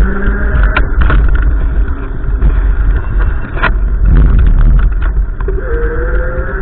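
Gusty wind buffeting the microphone: a loud, steady low rumble with scattered clicks and crackles.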